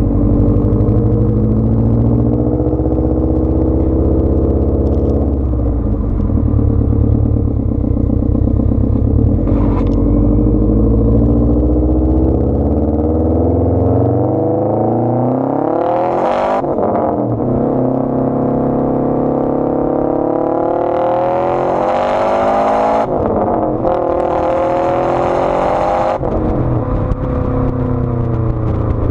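2015 Subaru WRX STI's turbocharged 2.5-litre flat-four, breathing through a 3-inch catless downpipe with the muffler deleted, running steadily at first, then accelerating hard: the revs climb, break at an upshift about halfway through, and climb again through two more upshifts near the end.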